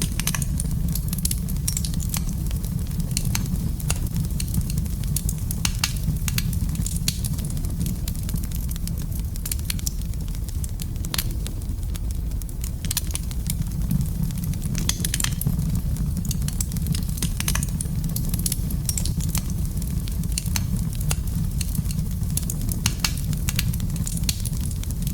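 Wood fire burning in a fireplace, crackling and popping at irregular intervals over a steady low rumble.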